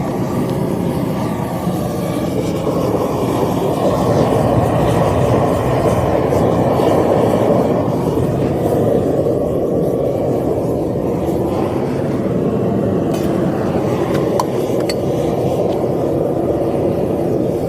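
Propane-torch-fired furnace running with a steady, noisy rush from the burner flame, at full heat with copper molten in its crucible.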